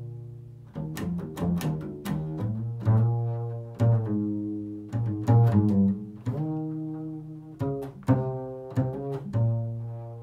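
Solo plucked low-pitched string instrument improvising a slow love song: single notes plucked one after another, each ringing and fading before the next.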